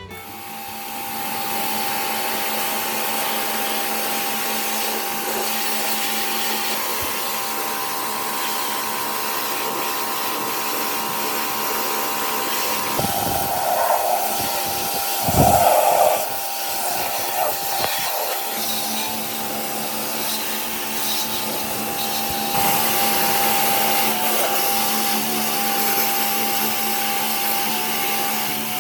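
Small electric fan motor running steadily, with a whine and a rush of air, and a few louder bumps about halfway through.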